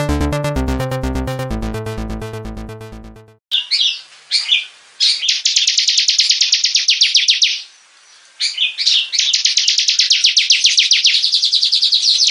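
A short musical intro, a run of pitched notes, fades out about three seconds in. A ciblek (bar-winged prinia) then sings fast, high trills of rapidly repeated notes, pauses briefly near the middle, and carries on.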